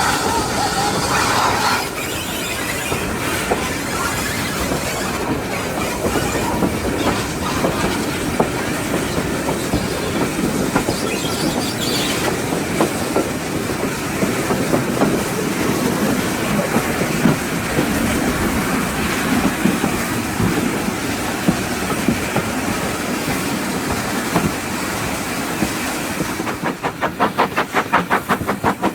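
Steam-hauled train behind 2-6-0 steam locomotive No. 9351 on the move: the whistle sounds briefly at the start, then the carriages rumble and clatter over the rails. Near the end a quick, regular exhaust beat comes in.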